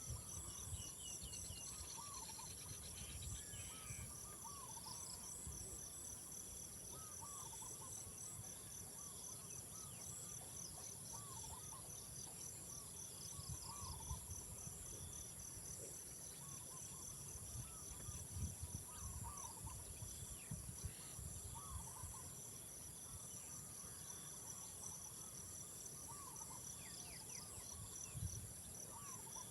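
A chorus of crickets and other insects: a steady high buzz with trains of rapid pulsed chirps over it. Throughout, a short call repeats every second or two from another animal, over a faint low rumble.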